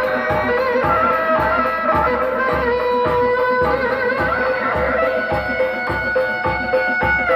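Live Sundanese benjang music: a reedy tarompet melody, held notes moving step by step, over kendang drums beating a steady pulse about twice a second.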